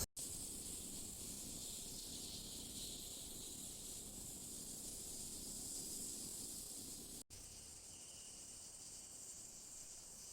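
Faint, steady rainforest ambience: an even high-pitched hiss, broken by two brief dropouts, one right at the start and one about seven seconds in.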